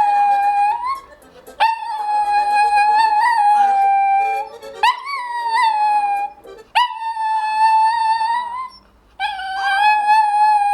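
A dog howling in long, held notes, four or five howls in a row with short breaks between them, each wavering slightly in pitch.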